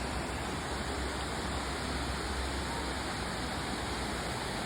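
Steady rush of falling water from waterfalls and streams.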